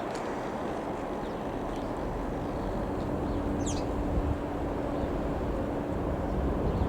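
Steady drone of a light single-engine propeller aircraft's piston engine, with one short bird chirp about four seconds in.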